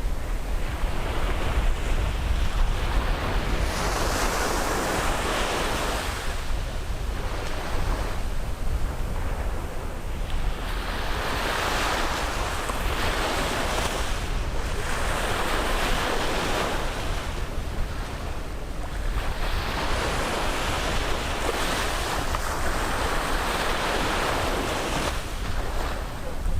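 Sea waves breaking and washing up the beach, one surge after another every few seconds, over a steady low rumble of wind on the microphone.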